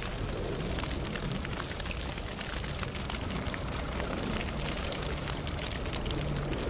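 Campfire burning: a steady low rush of flame with frequent small crackles and pops from the burning wood.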